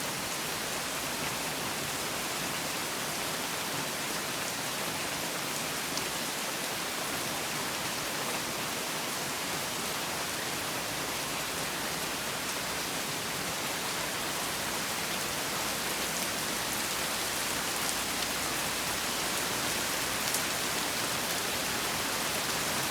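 Heavy tropical rain falling steadily, a dense even hiss with occasional louder drops.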